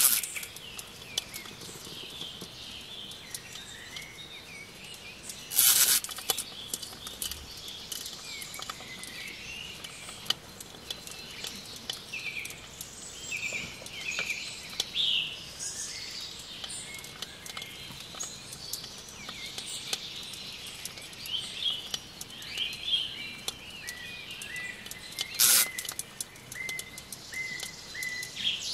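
Birds chirping in the background: many short, high chirps throughout. Scattered faint clicks run under them, and three short loud bursts of noise come at the start, about six seconds in and near the end.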